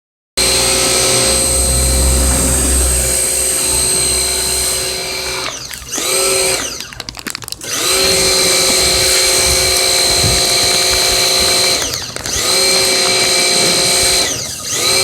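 A small high-speed motor whining steadily. Several times it slows and dies away briefly, then spins back up with a rising pitch.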